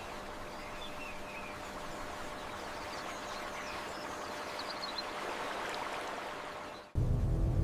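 Birds chirping faintly over a steady rushing ambience. Near the end it cuts off abruptly and loud music starts.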